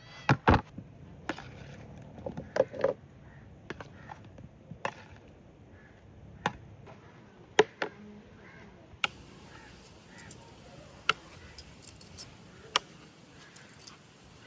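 Chopping on wood: about a dozen single sharp strokes at uneven intervals of roughly one to two seconds, the loudest pair just after the start.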